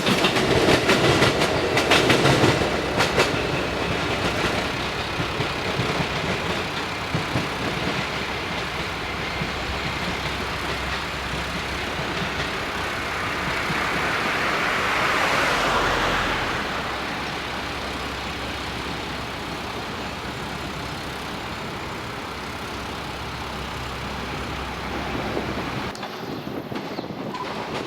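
A JNR-era diesel railcar running on the line, with a steady rumble. The wheels click over rail joints in the first few seconds. The sound swells about halfway through, then settles before changing abruptly near the end.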